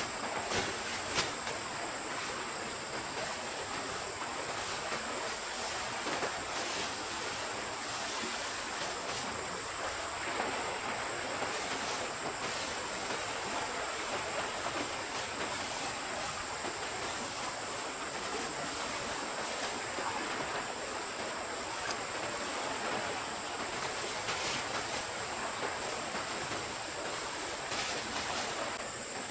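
Stream water flowing as a steady rushing hiss, with a thin steady high tone over it and a few faint clicks.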